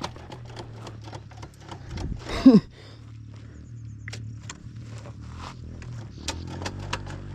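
Small four-stroke dirt bike engine idling low and steady, with light clicks and rattles over it. A brief, loud sound that falls in pitch breaks in about two and a half seconds in.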